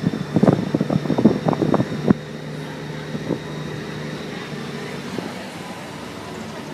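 Motorcycle engine running: a loud, uneven pulsing for about the first two seconds, then it settles into a quieter, steady low hum.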